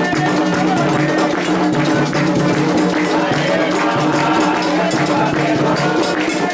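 Candomblé ritual music: drums and percussion with a steady, unbroken beat, and voices singing over it.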